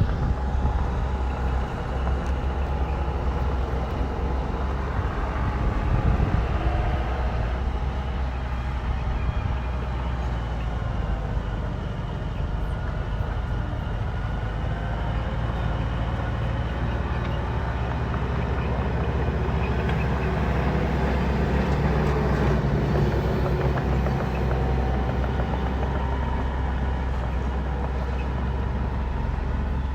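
Bulldozer's diesel engine running steadily with a continuous low rumble, some higher tones wavering in pitch over it.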